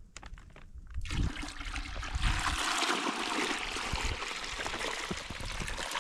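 Maple sap pouring from a collection bag into a bucket: a steady splashing stream that starts about a second in, after a few small knocks.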